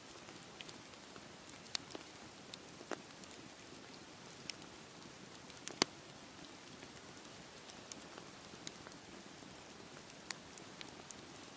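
Campfire crackling, with sharp pops scattered irregularly, the loudest about six seconds in, over a steady wash of sea waves on the shore.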